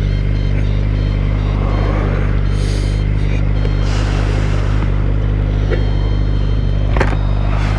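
Suzuki GSX-R 600's inline-four engine running at a steady cruising speed, its pitch holding even, with wind noise rushing over the microphone.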